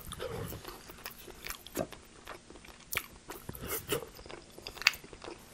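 Close-miked chewing of a mouthful of food dipped in cheese sauce, with irregular sharp mouth clicks, a few of them louder.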